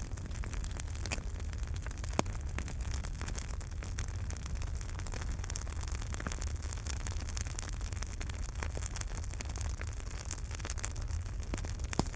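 Fireplace fire crackling: a steady low rumble of flames with many small irregular crackles and pops, a louder pop about two seconds in and another near the end.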